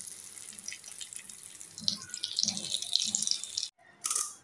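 Pointed gourd (potol) slices slowly frying in oil in a wok: a steady sizzle with fine crackles. It cuts off abruptly near the end, followed by a brief burst of noise.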